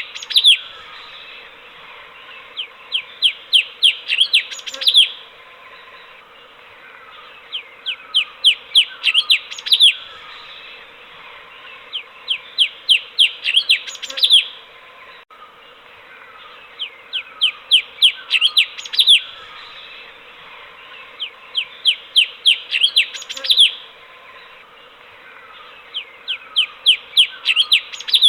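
Cucak cungkok bulbul singing in repeated phrases about every four and a half seconds. Each phrase is a quick run of about seven sharp chirps ending on a louder note, with softer lower calls between the phrases, over a steady background hiss.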